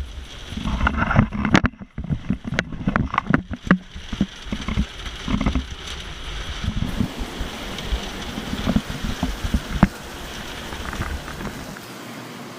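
Rain falling, with many irregular drops tapping close to the microphone over a steady hiss. A low rumble on the microphone stops near the end.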